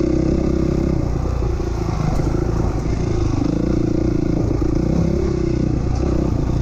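A 450 four-stroke single-cylinder dirt bike engine running under throttle while riding, its pitch dipping and rising as the rider works the throttle.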